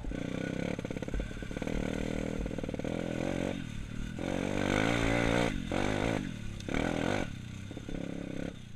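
Dirt bike engine revving in several short blips, its pitch rising and falling between them.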